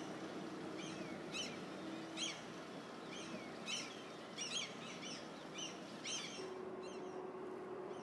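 Birds chirping: short, quick chirps come irregularly, one or two a second, over a steady low hum.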